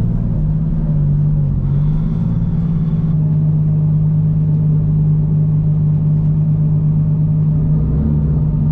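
Toyota GT86's flat-four engine running with a steady drone, heard from inside the cabin; its pitch dips briefly about a second and a half in, then holds steady.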